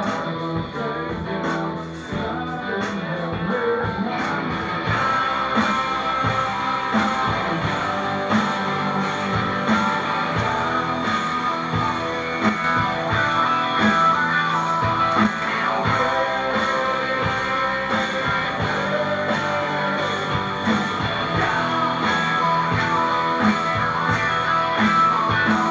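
Rock band playing, led by strummed electric guitar; the music grows fuller and louder about four seconds in.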